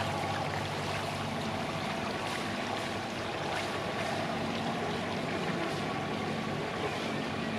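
Boat engine running with a steady low hum that fades about a second in, over a steady hiss of wind and water.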